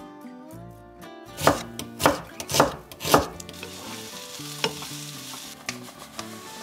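Four sharp knocks about half a second apart, then sliced onions sizzling in a frying pan with a steady hiss from about halfway through.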